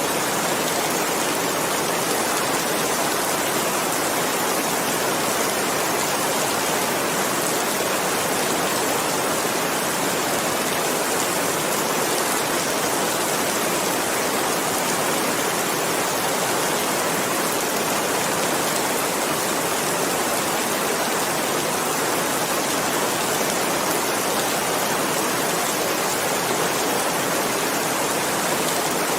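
Steady heavy rainfall, an even unbroken hiss with no distinct drops standing out and no thunder.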